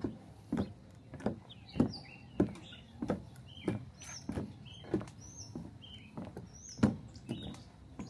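A hiker's steady walking footsteps, about three every two seconds, with a small bird chirping repeatedly at the same time.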